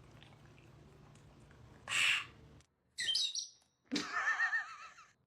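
A parrot calls: a short high squawk about three seconds in, then a warbling, wavering call of about a second. A brief breathy rasp comes just before them, over faint low hiss.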